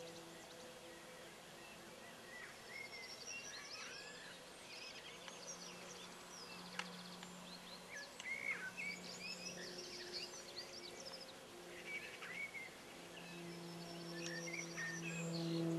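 Small birds chirping and singing on and off over a steady low hum that grows louder near the end. A single sharp click comes about seven seconds in.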